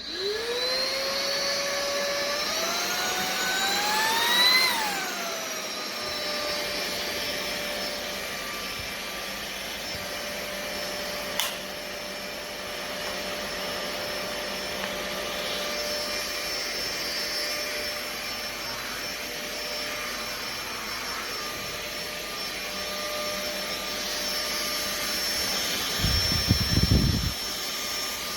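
Fieety cordless stick vacuum's motor switching on with a rising whine. Its pitch climbs higher around three to four seconds in, then falls back to a steady whine. There is a single click near the middle and a louder low rumble near the end.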